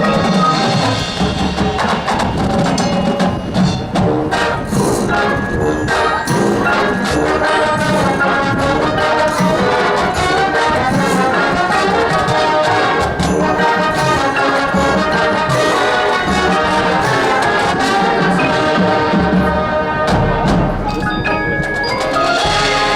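Marching band playing, brass over mallet percussion and wood block.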